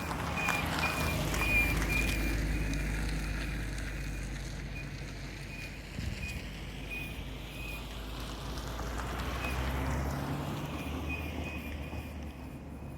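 Brakes of a GE8 Honda Fit with brand-new pads giving a repeating high-pitched chirp, a few a second, over the car's road and engine rumble; the chirping dies away for a few seconds and comes back near the end. It is a noise that occurs when the brakes are not applied.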